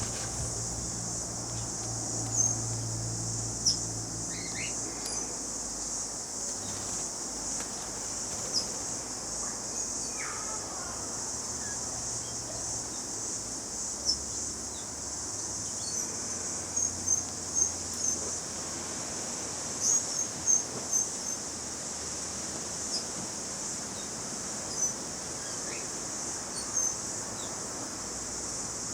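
A steady, high-pitched chorus of insects, like crickets, shrilling without a break. Over it come short high chirps from small birds, coming most often a little past the middle.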